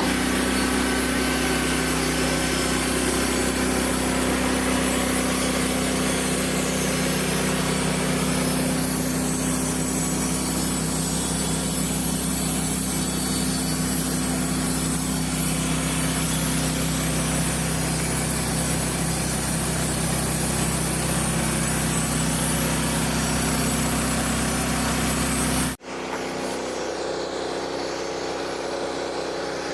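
Frontier OS27 portable band sawmill cutting white oak: the engine runs steadily under load while the band blade saws through the log with a constant hiss. About 26 s in, the sound breaks off abruptly and gives way to a quieter, steady engine running.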